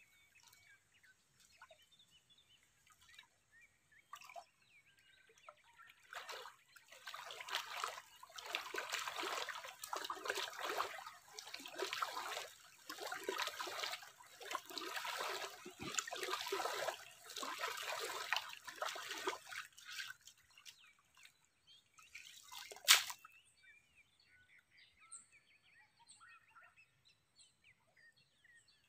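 Water sloshing and splashing in quick irregular strokes for about fourteen seconds, then a single sharp knock. Birds chirp faintly before and after.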